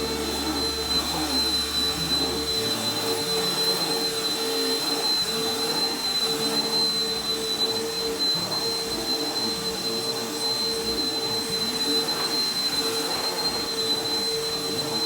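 Regular household vacuum cleaner running steadily on carpet, its motor giving a constant whine over the rush of air.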